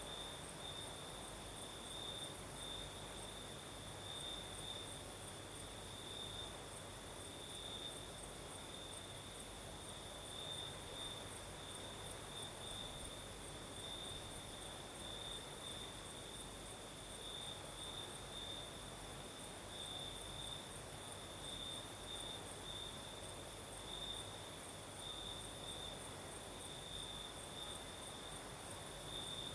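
Crickets singing at night: a steady, pulsing trill, with a second, higher-pitched insect trill above it and a soft low rush of night breeze underneath.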